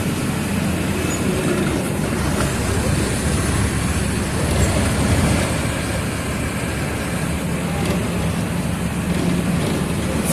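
Mercedes-Benz OF 1722M city bus driving, heard on board: the diesel engine's steady low drone mixed with road noise and body rattle. The engine note fades in the middle and comes back stronger near the end.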